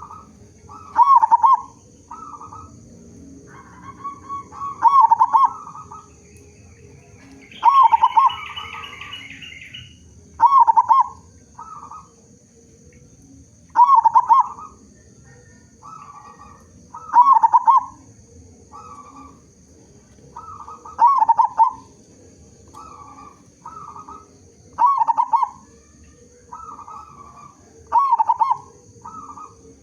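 Zebra dove (perkutut) cooing: a short, loud coo phrase repeated about every three to four seconds, with softer coo notes in between.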